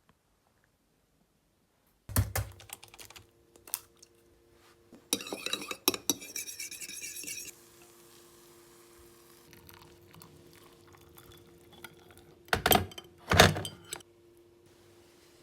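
Kitchenware being handled: a couple of knocks, then a clinking rattle of dishes or utensils for a few seconds, and two louder knocks near the end, over a faint steady hum from an appliance.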